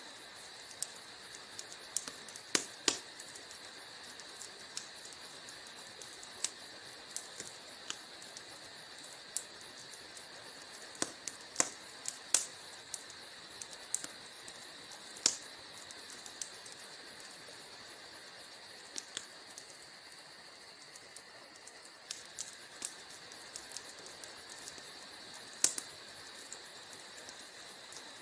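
Wood fire crackling in a fireplace: irregular sharp pops and snaps from the burning logs over a steady soft hiss, with a few louder pops scattered through.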